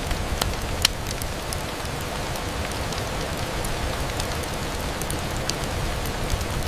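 Steady rain on a window glass, a continuous hiss over a low rumble, with scattered sharp ticks of individual drops, the loudest a little under a second in.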